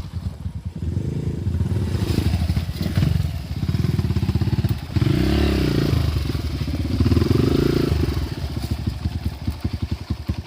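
Dirt bike engine being ridden, the throttle opened and closed in repeated swells of revs with a low chugging pulse between them.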